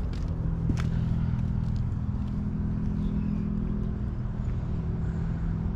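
An engine idling steadily with a low, even hum, with a few light clicks over it.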